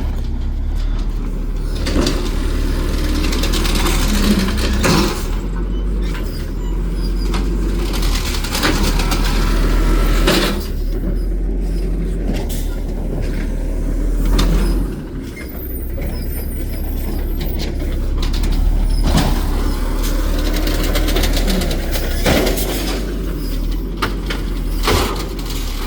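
Recycling garbage truck working its route: the diesel engine runs steadily under repeated knocks and clanks, with air-brake hisses.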